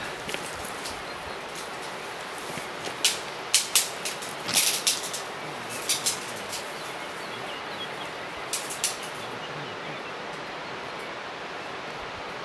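Outdoor ambience: a steady hiss with clusters of short, sharp, high chirps from small birds calling in the woods, a few seconds in and again near the end.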